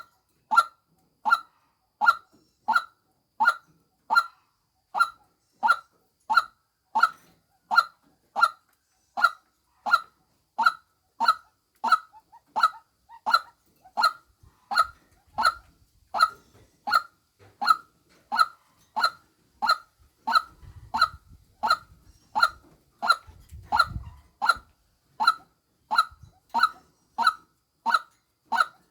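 Female white-breasted waterhen call, played as a lure: one short note repeated evenly, about three calls every two seconds.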